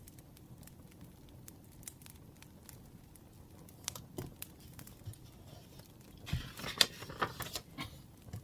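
Sparse crackling and pops of a burning wood fire, then from about six seconds in a louder stretch of paper rustling and crinkling as paper is handled.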